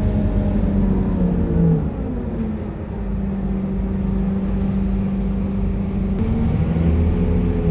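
Scania K230UB bus's five-cylinder diesel engine running. Its note drops about two seconds in and holds steady and low, then climbs again about six seconds in as it pulls harder.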